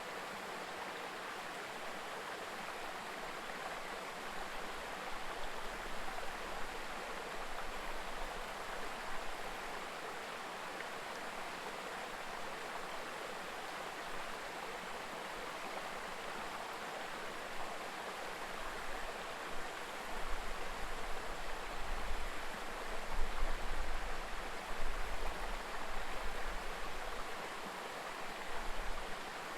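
Mountain river babbling: a steady rush of flowing water. An uneven low rumble comes and goes over the second half.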